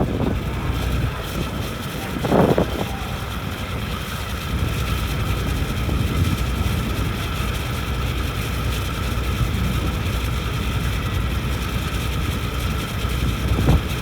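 Ferry's engine running steadily, a low drone with a few steady whining tones above it, with wind on the microphone. A brief louder burst comes about two and a half seconds in, and another near the end.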